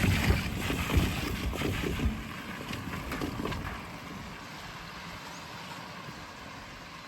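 Rain falling, a steady hiss. Over the first three to four seconds a louder low rumble with scattered knocks dies away.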